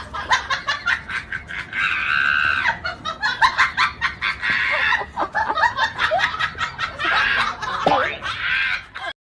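Laughter in quick repeated bursts, with higher-pitched drawn-out stretches between the bursts.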